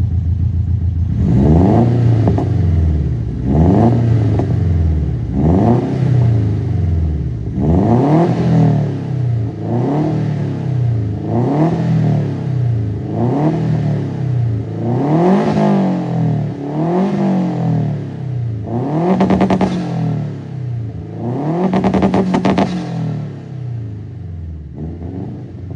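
Subaru Impreza WRX STI's turbocharged EJ207 flat-four with unequal-length headers being revved in a dozen or so quick blips, one every second or two, each rising and falling, with the classic boxer rumble. The last two revs are held longer at a steady high pitch.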